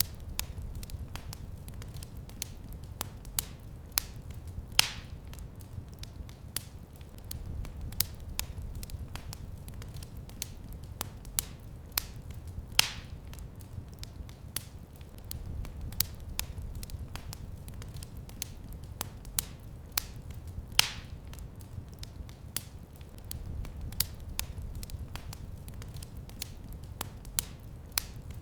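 Wood fire crackling in a fireplace: a constant run of irregular small snaps and pops over a low rumble, with a louder pop about every eight seconds.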